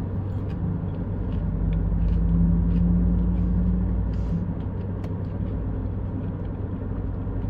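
Steady low rumble of an idling car heard inside the cabin. A low hum comes in about half a second in, swells, and stops after about four seconds.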